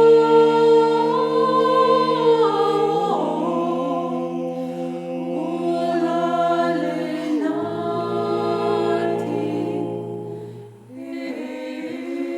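Vocal ensemble singing a cappella in several-part harmony: long held chords that change every few seconds, with a brief break near the end before a new chord begins.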